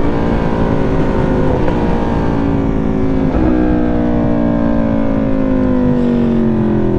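Aprilia Tuono V4's V4 engine heard from the bike, its pitch falling slowly as the motorcycle slows off the throttle, with a brief change in tone about three seconds in.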